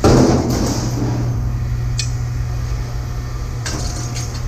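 Scrap pieces tossed into a bin: a loud clattering crash at the start that rings out for about a second, a sharp clink about two seconds in, and a short clatter near the end, over a steady low hum.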